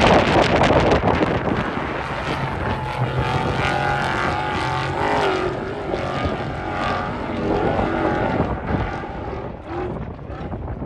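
A vehicle engine running, its pitch rising and falling, over heavy wind noise on the microphone.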